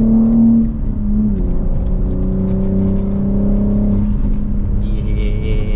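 BMW G80 M3's twin-turbo inline-six, breathing through a single midpipe, accelerating through the gears: the engine note climbs, falls at an upshift about a second in, climbs again and falls at another shift about four seconds in.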